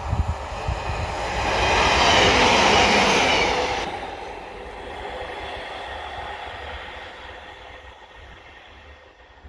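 Class 150 Sprinter diesel multiple unit passing close by. Its engine and wheel noise swell to a peak about two to three and a half seconds in, drop off sharply near four seconds as it goes by, then fade as the train runs away down the line.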